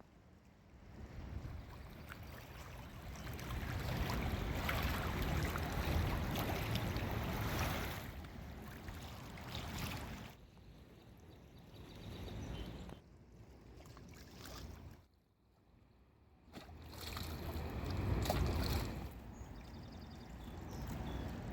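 Outdoor noise of wind and moving water at a flooded lakeshore, rising and falling, with an abrupt drop-out for about a second around two-thirds of the way in.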